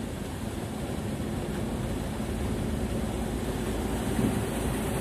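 Steady engine rumble under a wash of wind or rain noise, with no breaks or changes.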